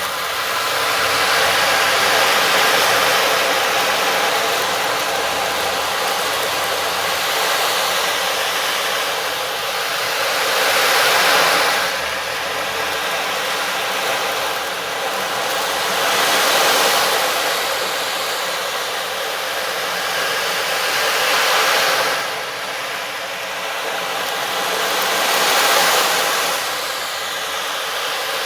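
Sound-bath texture: a steady rushing hiss that swells and fades about every five seconds, over faint held tones.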